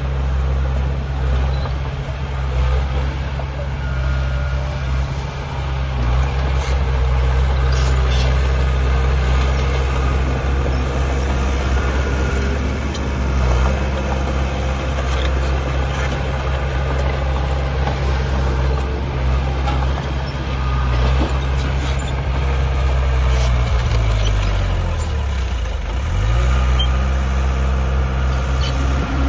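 Heavy diesel earthmoving machinery running steadily, with a low engine drone. Late on, the engine pitch sags and then climbs back, as under load. Faint knocks and clanks are scattered through.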